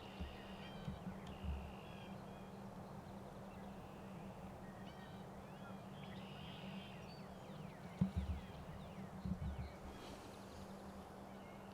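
Faint birds chirping in quiet outdoor ambience, with a few low thumps near the start and again about eight to ten seconds in.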